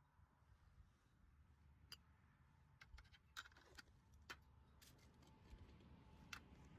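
Near silence with a handful of faint, sharp clicks and ticks scattered irregularly through the middle and latter part.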